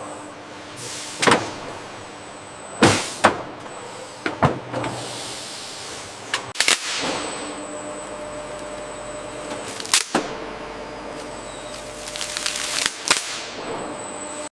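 Packaging-line machinery running with a steady hum, broken by sharp mechanical clacks at irregular intervals, about eight in all, some followed by a short falling hiss of air.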